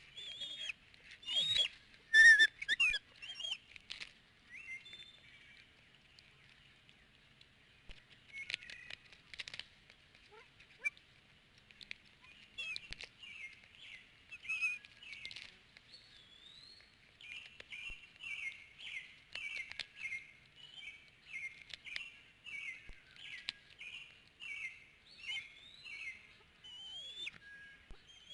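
Bald eagles calling: high chirping whistles, loudest in the first few seconds. From just past halfway comes a quick run of short falling chirps, about two a second.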